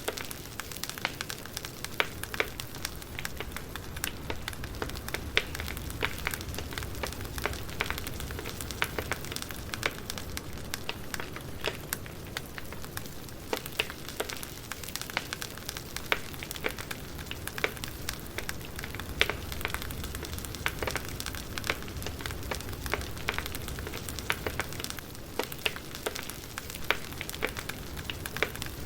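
Burning firewood crackling, with a steady hiss under many irregular sharp pops and snaps.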